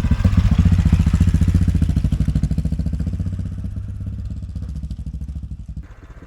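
AJP PR7 motorcycle's single-cylinder engine comes in loud and sudden with a fast rhythmic pulse as the bike pulls away. It eases off gradually and drops lower near the end.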